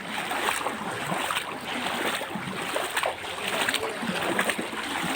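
Someone wading through floodwater, the water sloshing and splashing irregularly around the legs with each step.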